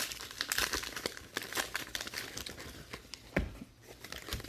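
Foil trading-card pack wrappers crinkling and tearing as packs are opened and handled, in quick irregular crackles, with a soft thump about three and a half seconds in.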